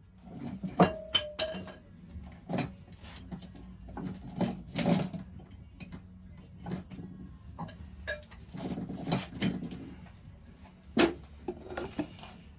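Metal hand tools clinking and knocking against metal engine parts in irregular strikes. One strike about a second in leaves a short ringing note, and there are louder knocks around the middle and near the end.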